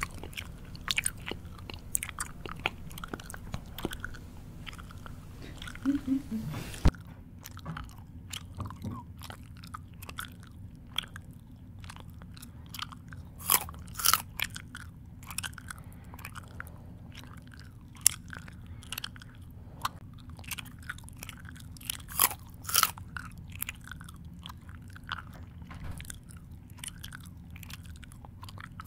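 A person chewing food close to the microphone with the mouth open: irregular wet smacks and crunches in quick succession. There is one sharp louder click about seven seconds in, where the background hiss changes.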